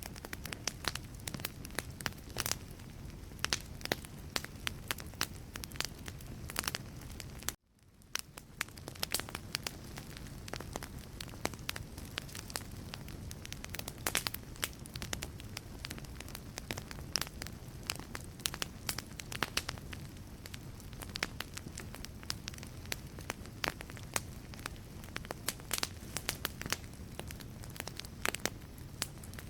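Wood fire burning in a fireplace: logs crackling and popping in dense, irregular snaps over a steady low rumble of flame. About seven and a half seconds in, the sound cuts out abruptly for a moment and fades back in.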